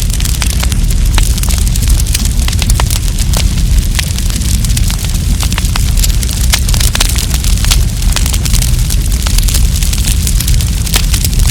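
Campfire burning, with dense, irregular crackles and pops from the burning wood over a steady low rumble.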